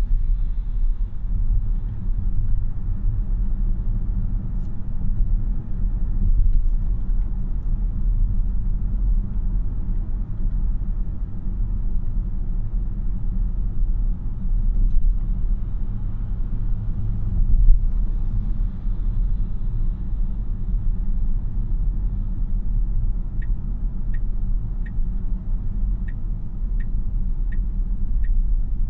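Road and tyre rumble heard inside the cabin of a 2026 Tesla Model Y AWD, a dual-motor electric car, driving along steadily with no engine note. Near the end, a regular ticking starts, about one tick every 0.7 seconds, like the car's turn-signal indicator.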